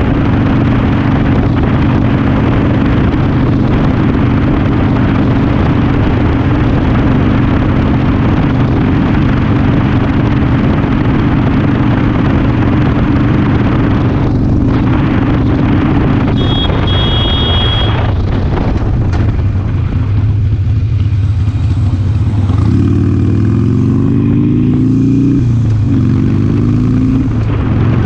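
Motorcycle engine running at a steady cruise with road and wind noise. In the last few seconds the engine note rises, drops back and rises again as the bike accelerates.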